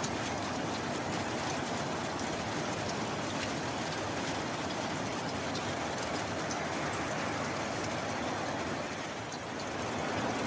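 Steady heavy rain, a dense even hiss with single drops ticking through it, dipping slightly near the end.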